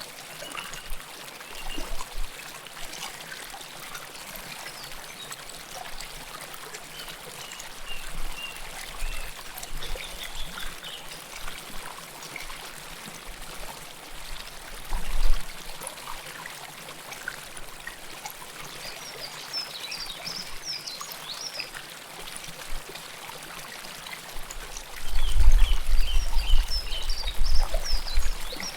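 River water flowing close by: a steady rushing hiss with trickling and gurgling, swelling louder with a low rumble near the end.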